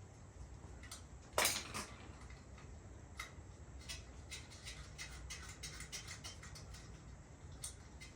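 Metal bike parts and hand tools clinking and knocking during assembly: one louder knock about a second and a half in, then a run of quick, light clicks.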